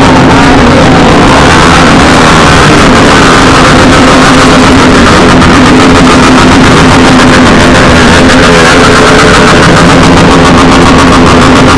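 Motorcycle engine running steadily while riding, heard through heavy noise that fills the whole range and stays very loud throughout.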